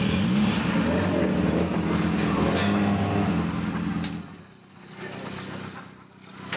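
Rally car engine revving loudly as the car pulls away, its pitch rising and falling; about four seconds in it drops away sharply, leaving a quieter engine running.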